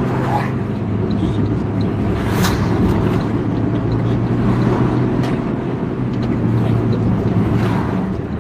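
A truck's diesel engine running steadily on the move, with a constant low hum and road noise.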